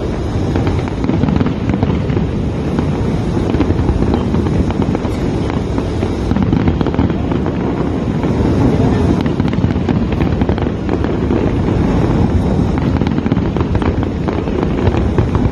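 New Year's Eve fireworks display going off without a break: a dense, steady crackle of many rapid pops and bursts.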